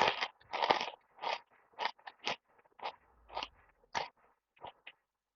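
A person chewing food close to the microphone: a run of short chewing noises, two louder ones at the start and then smaller ones about two a second, thinning out and stopping near the end.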